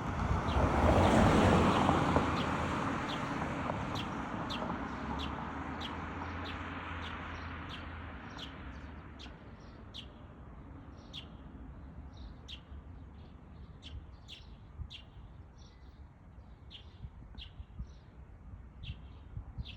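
Eurasian tree sparrows chirping, short high chirps repeating about once or twice a second. A passing vehicle's rushing noise swells loudly in the first couple of seconds and fades away over several seconds.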